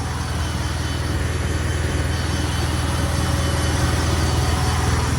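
Ford Mustang 3.7 L V6 idling steadily through a straight-piped exhaust with a BBK catted X-pipe and no mufflers or resonators.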